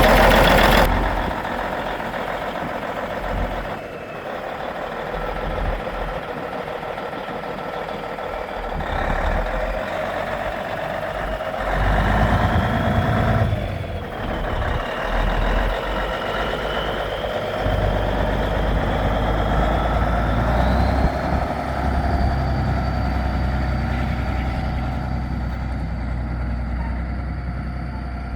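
White semi truck tractor's engine running, with a thin high-pitched whine that drifts in pitch from about halfway through and then holds steady.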